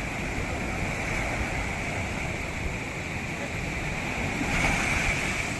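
Ocean surf washing onto the beach in a steady rush, with one wave breaking louder about four and a half seconds in.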